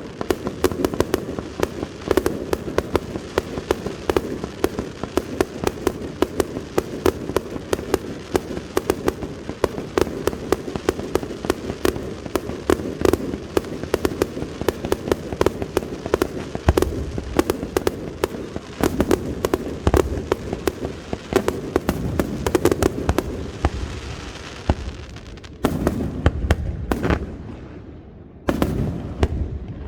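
Aerial fireworks display: a dense, continuous barrage of rapid bangs over a rumbling echo. Near the end it thins to a few separate heavy booms.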